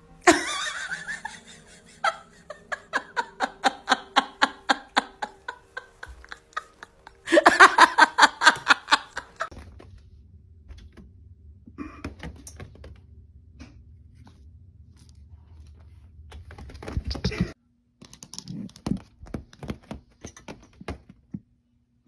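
A person laughing in two rhythmic bouts of short voiced pulses, about three a second, followed by scattered light knocks and taps.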